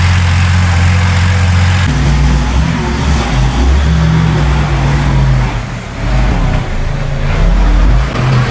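Heavy diesel earthmoving machinery running: a steady low engine drone that changes about two seconds in to a wavering engine note whose pitch rises and falls.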